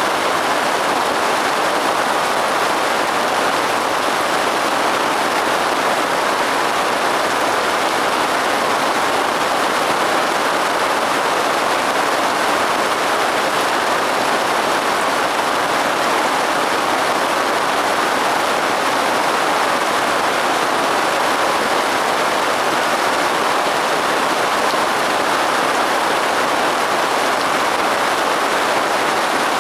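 Steady rain falling: an even, unbroken hiss of water with no change in strength.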